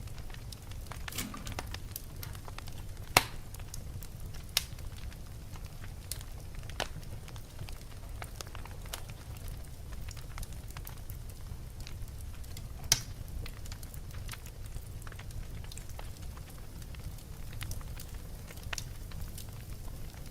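Wood fire burning in a fireplace: a steady low rumble with scattered sharp crackles and pops, three of them louder than the rest.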